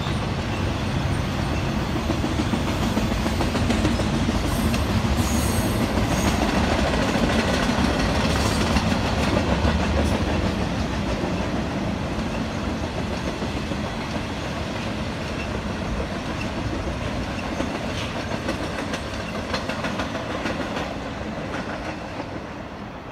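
Intermodal freight train of container cars rolling past, its steel wheels rumbling on the rails. The sound fades toward the end as the last cars move away.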